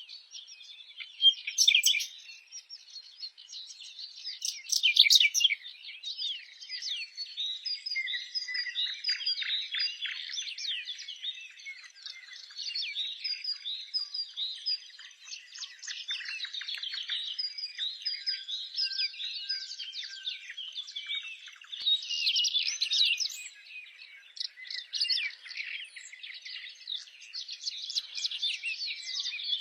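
A chorus of small birds chirping at once, a dense unbroken stream of high calls, with louder bursts about 1, 5 and 22 seconds in.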